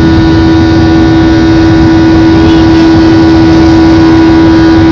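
Boeing 737 jet engines at high thrust, heard from inside the passenger cabin: a loud, steady roar with a strong steady hum tone running through it.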